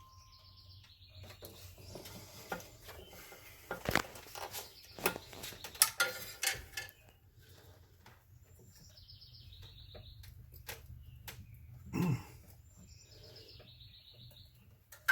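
Scattered clicks and knocks of hands and tools working plastic wiring connectors in a car's engine bay, loudest about four seconds in and near the end. A bird chirps in three short high phrases in the background.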